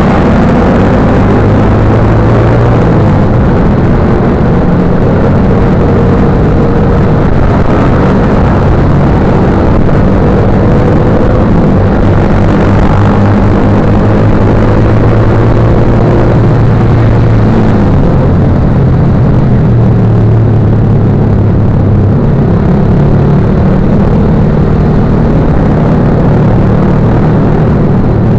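Motorcycle engine running while riding, its pitch stepping up and down several times, under a loud steady rush of wind on the microphone.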